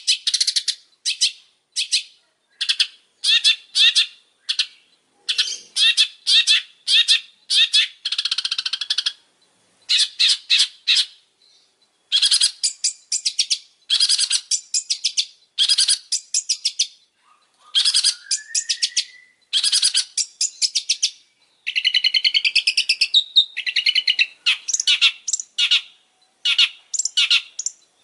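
Long-tailed shrike (pentet) singing in bursts of rapid, harsh chattering notes separated by short pauses. About eighteen seconds in there is a rising whistled note, and a few seconds later a longer warbling phrase.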